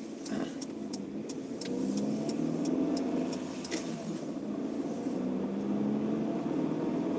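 Car engine heard from inside the cabin while driving, its pitch rising, dipping about four seconds in, then rising again. Scattered light clicks sound over it during the first few seconds.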